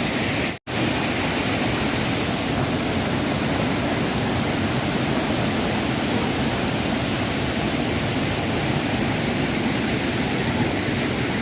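Waterfall water pouring and splashing in a steady, loud rush, broken once by a brief cut to silence about half a second in.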